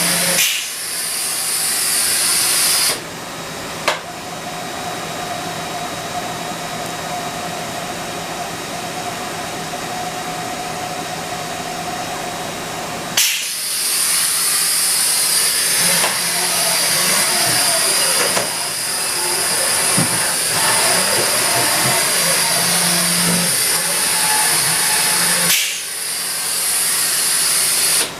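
Haas VF-3SS five-axis CNC vertical machining center running, a steady hiss with a steady whine through the first half. The sound changes abruptly three times, each change marked by a sharp click.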